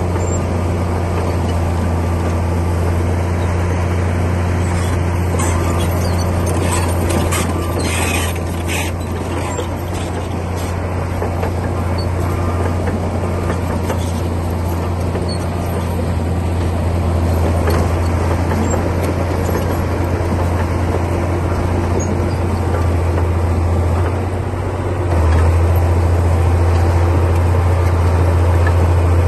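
Komatsu D60P bulldozer's diesel engine running steadily with a deep hum, with a cluster of clanks and rattles about seven to nine seconds in. The engine grows louder about 25 seconds in.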